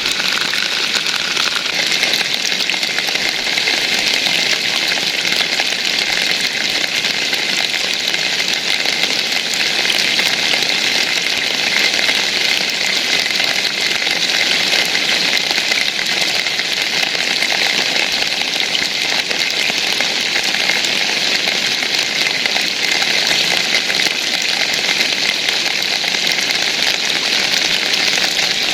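Steady rain falling, a dense, even patter with no let-up.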